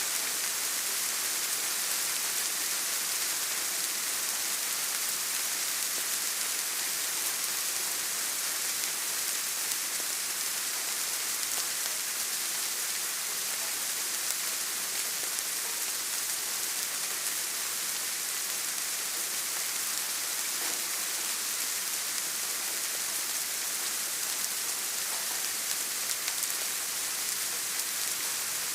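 Steady rain: an even, unbroken hiss, brightest in the high range, with no single drops standing out.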